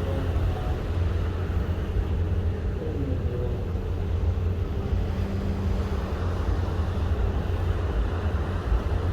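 Steady low rumble of strong wind buffeting the microphone aboard a ship at sea, with a faint hum underneath.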